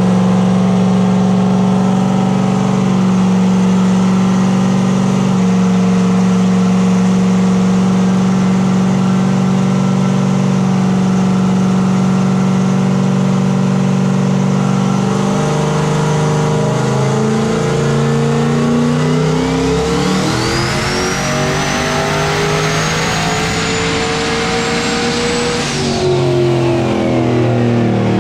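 Turbocharged Gen V LT V8 in a Silverado drag truck running on a chassis dyno. It holds steady revs at first, then from about halfway the revs climb and the turbo's whine rises steeply in pitch. Near the end the whine and the revs cut off and fall away.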